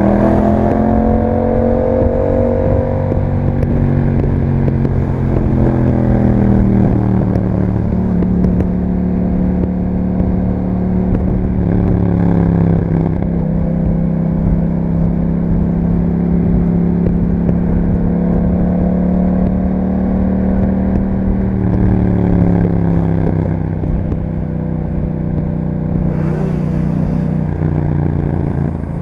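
2021 Yamaha MT-07's parallel-twin engine through an Akrapovic exhaust, running under way at a mostly steady speed. The note climbs in the first few seconds, eases off around five seconds in, climbs again and holds steady, drops about twenty-two seconds in, then picks up again near the end.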